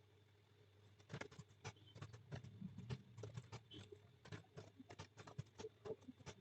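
Computer keyboard typing: quick, irregular key clicks that start about a second in, over a faint steady hum.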